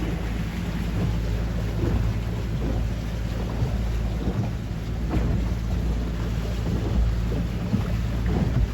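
A tour boat's motor running steadily under way with a low hum, and wind buffeting the microphone.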